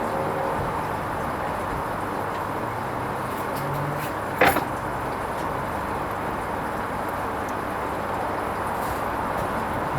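Hoover Vision HVP16 washing machine running a gentle silks wash programme: a steady running noise, with one sharp knock about four and a half seconds in.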